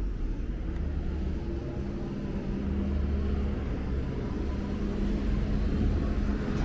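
A motor vehicle's engine running steadily over low traffic rumble, with a steady low hum coming in about two seconds in.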